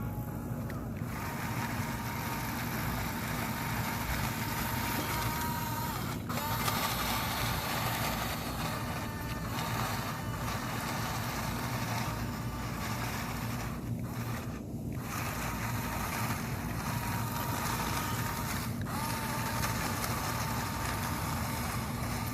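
Radio-controlled Huina excavator's electric motors whining in spells as it works, stopping and starting every few seconds, over a steady low hum.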